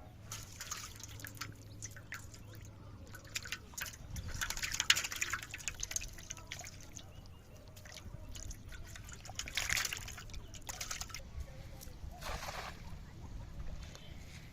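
Water splashing and dripping in several short bursts, with the loudest splashes about a third of the way in and again about two-thirds through.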